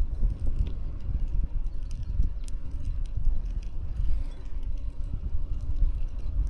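Low, uneven wind rumble on the microphone while a bicycle is ridden, with a few faint clicks.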